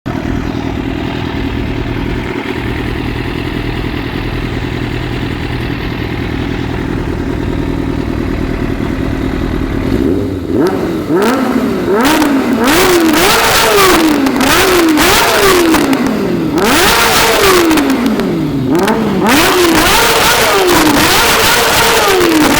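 Kawasaki Ninja ZX-6R inline-four with a Devil Carbon aftermarket exhaust idling steadily, then about ten seconds in being blipped over and over, the pitch rising sharply and falling back each time. Sharp pops and crackles from the exhaust follow the revs as the throttle closes.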